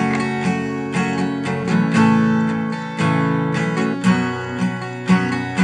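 Acoustic guitar, capoed at the 2nd fret, strummed up and down in open chords, cycling through the G, A sus2 and E minor intro progression; the chord changes about two and three seconds in.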